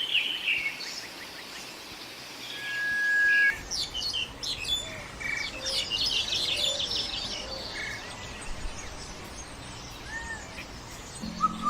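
Several birds calling: scattered high chirps, one steady whistled note held for about a second around three seconds in, then a dense run of rapid high chirps, over a constant hiss of background noise.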